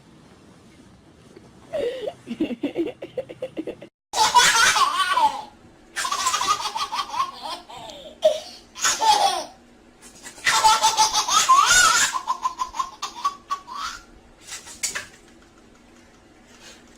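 A baby laughing: repeated bursts of high-pitched belly laughter, broken by a short gap about four seconds in.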